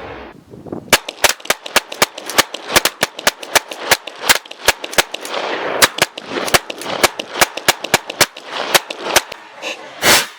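Rapid semi-automatic gunfire: a string of about thirty shots, roughly three to four a second, starting about a second in, then one louder, longer blast near the end.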